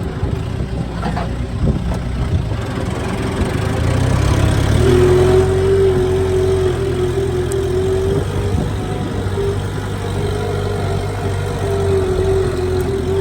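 Kubota M7040 tractor's diesel engine running steadily under load while ploughing. About five seconds in, the engine note steps up and grows louder.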